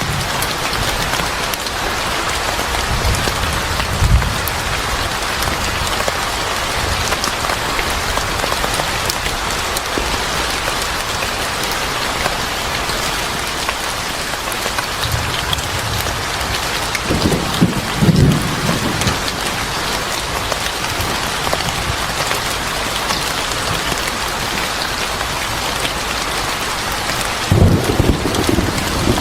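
Steady heavy rain pattering on a surface, with short low rumbles of thunder a few times: one about three seconds in, a louder one a little past halfway, and another near the end.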